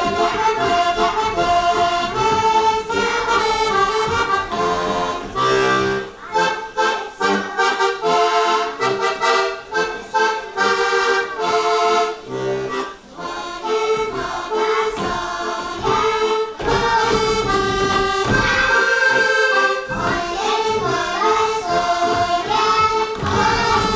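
Accordion playing a lively Slovak folk dance tune, the melody moving in quick steps over a rhythmic accompaniment.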